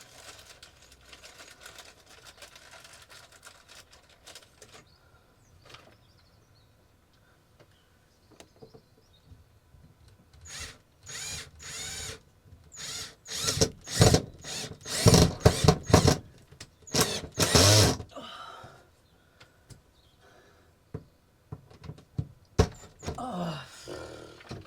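Electric screwdriver running in a series of short bursts, its motor speeding up and stopping as it drives screws into the shed's wood. There is one more short run near the end, rising in pitch.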